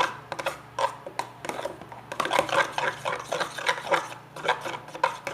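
A utensil stirring a thick shampoo-and-salt slime mixture in a container, making repeated scraping and clicking strokes, a few a second.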